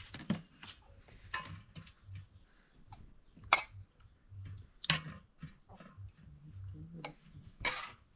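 A handful of irregular sharp clicks and knocks, the loudest about three and a half and five seconds in, over a faint low rumble.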